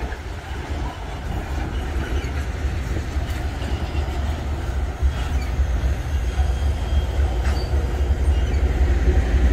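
A train running on the rails with a heavy low rumble that slowly grows louder as it comes closer, with a few faint high wheel squeals.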